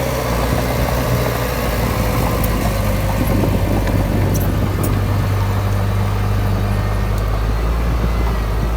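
Heavy diesel engine of earthmoving machinery running steadily, with a deep, even drone and a few faint clanks.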